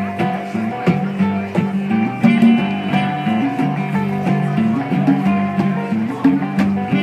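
Live acoustic band music: strummed guitar with mandolin and conga percussion playing a steady groove, with a moving low bass line.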